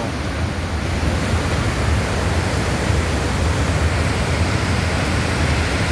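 Barron Falls in heavy flood, a huge volume of muddy floodwater pouring over the falls in a steady, deafening roar.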